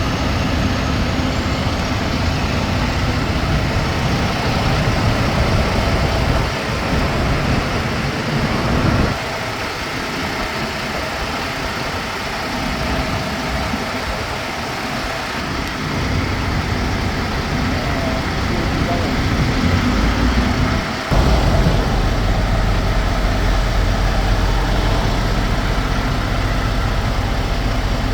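Heavy truck engine running steadily. Its low rumble thins out about nine seconds in and returns suddenly and stronger about twenty-one seconds in.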